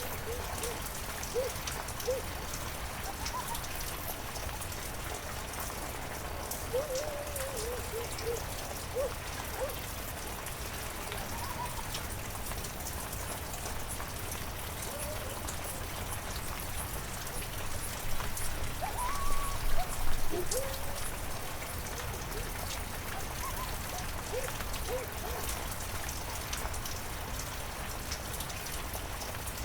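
Heavy rain falling steadily, with short pitched drip sounds scattered through it and a louder spell of drops about two-thirds of the way in.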